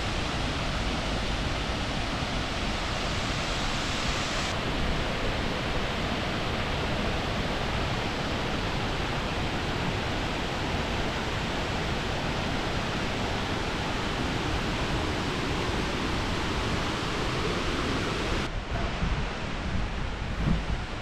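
Steady roar of Victoria Falls' falling water: a dense, even rushing noise. Its tone shifts slightly about four seconds in and again near the end, where low, irregular gusts of wind buffet the microphone.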